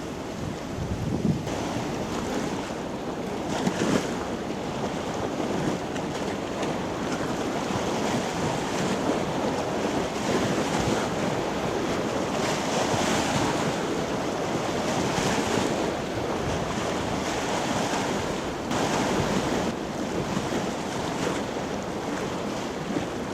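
Wind buffeting the microphone over a steady rush of water, swelling and easing in gusts several times.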